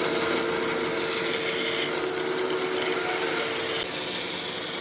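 A woodworking power tool running steadily on wood, with a constant high whine.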